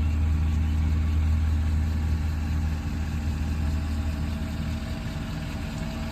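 Ford 6.7 L Power Stroke V8 turbodiesel idling steadily on its stock exhaust, a low, even hum that drops a little in level about three seconds in.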